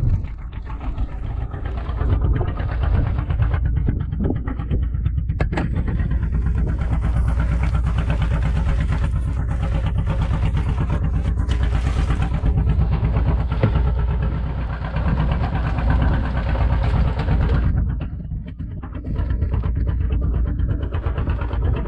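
Boat engine running steadily with an even low pulse, louder and harsher for about twelve seconds in the middle before easing back.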